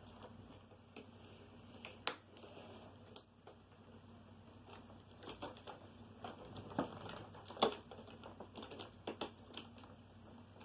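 Scattered light clicks and taps of hard plastic being handled, as the broken-off drive-control switch of a Hoover Concept One upright vacuum is worked at; the vacuum's motor is not running.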